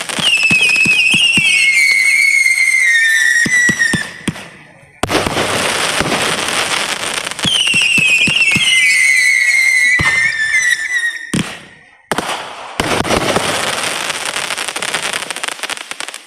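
Fireworks going off: loud stretches of crackling hiss with sharp pops, broken by two short lulls. Twice a high whistle glides steadily down in pitch for about three seconds, once at the start and again about halfway through.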